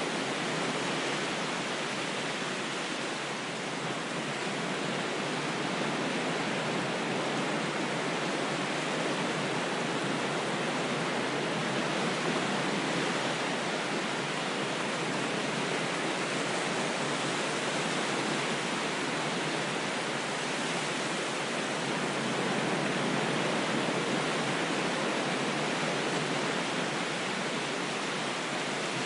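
Steady rushing of water, a dense even hiss with only slight, slow swells in loudness and no deep low end.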